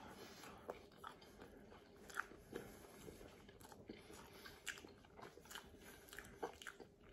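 Faint chewing of a mouthful of pizza: small, irregular wet clicks and crunches of the mouth working, a few of them a little louder.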